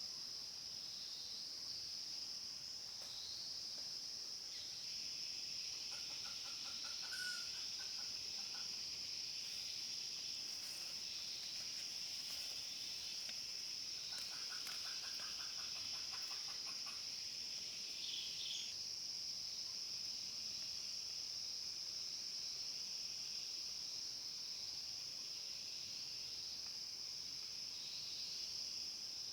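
Steady high drone of crickets or cicadas, with a wild chicken clucking in two short runs, about six seconds in and again about fourteen seconds in.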